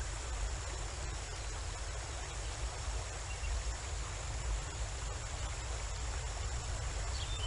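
Waterfall: a steady, even rush of falling water with a strong low rumble underneath.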